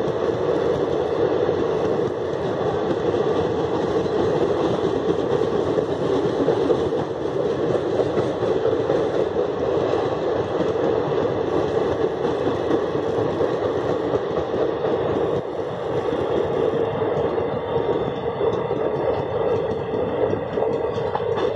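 Passenger coaches of the Shramjeevi Superfast Express running past over a brick arch bridge: the steady running noise of steel wheels on the rails, holding an even level throughout.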